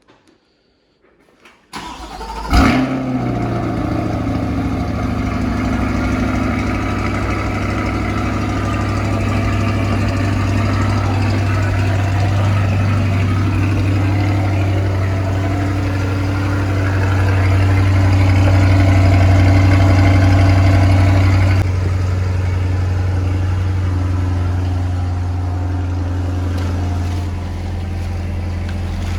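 2020 Corvette C8 Z51's 6.2-litre LT2 V8 started by remote start: a short crank, then it catches about two and a half seconds in with a loud flare and settles into a steady idle. The idle steps down to a lower level about 22 seconds in and again a few seconds before the end.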